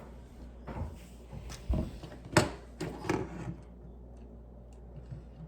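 Plastic Lego pieces being handled and clicked together: a handful of short clicks and knocks in the first three and a half seconds, the loudest about two and a half seconds in.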